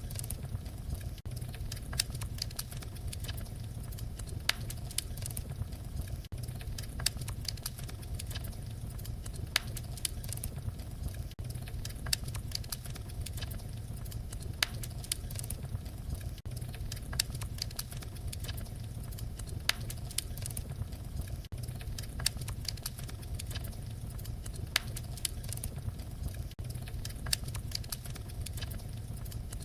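Wood fire crackling in a fireplace: a steady low rumble of flame with a constant scatter of small crackles and sharper pops. The track seems to be a short loop, with a louder pop about every two and a half seconds and a brief dip about every five seconds.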